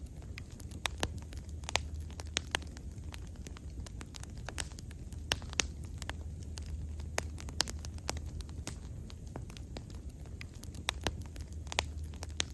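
Wood fire burning, with frequent sharp irregular crackles and pops over a low steady rumble of flame.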